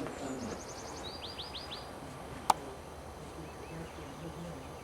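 A songbird sings one short phrase: a high note, a quick run of rapid notes, then four downward-slurred notes. A single sharp click about two and a half seconds in is the loudest sound.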